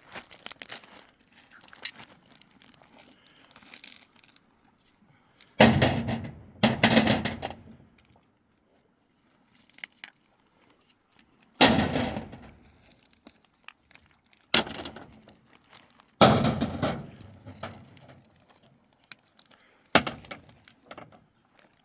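Stones thrown down one at a time, each landing with a loud crash that clatters and fades: six impacts, two close together and the rest a few seconds apart.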